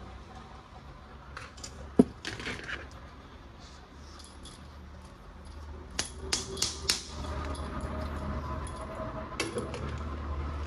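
Clicks and knocks of hard toy parts being handled: one sharp loud click about two seconds in, a quick run of clicks about six seconds in, and a few more near the end.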